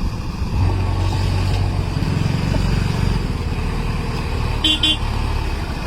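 A heavy road vehicle's engine running with a steady low rumble in highway traffic, with two quick horn toots near the end.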